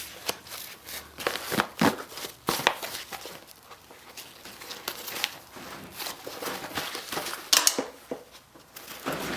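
A soft fabric tactical-style tail bag being handled and its inner flaps opened, giving irregular rustling and crinkling of the fabric with scattered sharp clicks and scrapes.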